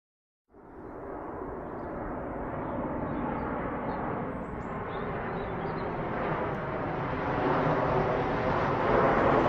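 A rumbling noise effect that starts suddenly about half a second in and swells steadily louder, with no clear pitch.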